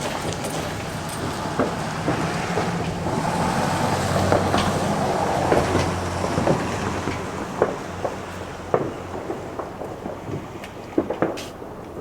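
Pouring rain: a steady heavy hiss with a low rumble that swells in the middle, and sharp drops tapping close by, more of them near the end.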